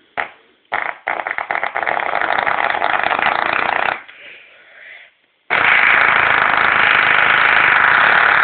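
Fart noises: a short blip, then a long fluttering one of about three seconds, and after a short pause another long, louder one that carries on past the end.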